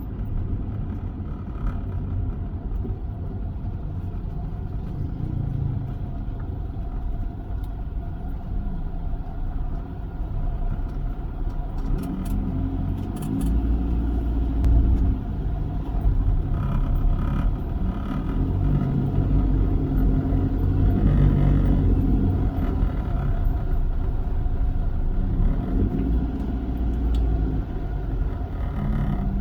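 Toyota Avanza driving, its engine and road noise a steady low rumble that grows louder about twelve seconds in, with the engine note shifting in pitch.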